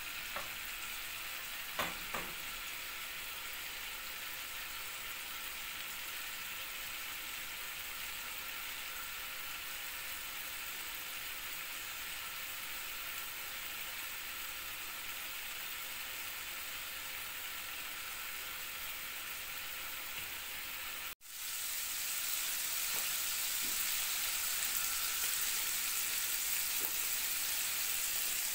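Shrimp sizzling steadily in their liquid in a nonstick frying pan, with a couple of knocks from the wooden spoon against the pan near the start. About two-thirds of the way through, the sound cuts out for an instant and comes back louder, a stronger sizzle as the liquid cooks down.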